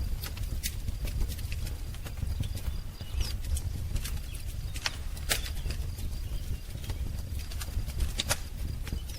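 Wood fire crackling, with irregular sharp pops over a low rumble of the flames. A faint bird chirp comes about three seconds in.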